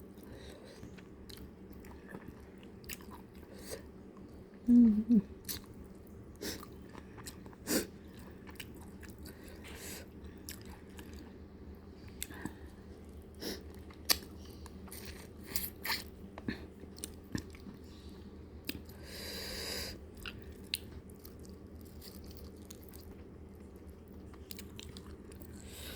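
Close-miked eating sounds of fried fish being chewed and gnawed off the bone, with scattered crisp clicks and smacks. A short voiced murmur comes about five seconds in, and a breathy rush lasting about a second comes about two-thirds through.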